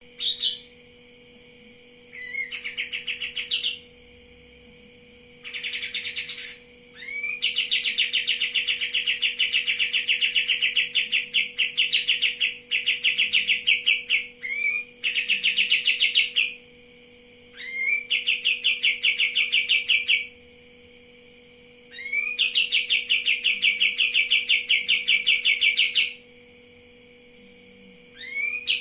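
A songbird singing phrase after phrase of rapid trills. Each phrase opens with a quick rising note and lasts from a second or so to several seconds, with short pauses between phrases. A faint steady hum runs underneath.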